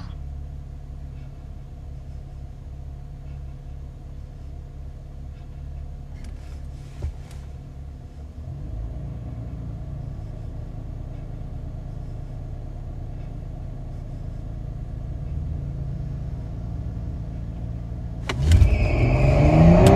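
Twin-turbo 3.6-litre V6 of a 2014 Cadillac CTS VSport idling steadily, heard inside the cabin. About a second and a half before the end it revs up, rising quickly in pitch and loudness as the car launches off the line.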